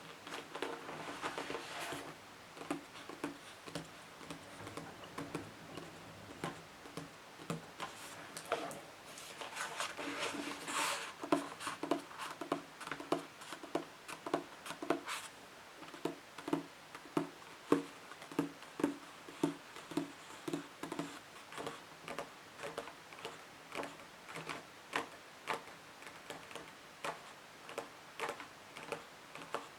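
Fingertips tapping and nails scratching on books: a long series of light taps, settling into about two a second in the second half, with a stretch of denser scratching about ten seconds in.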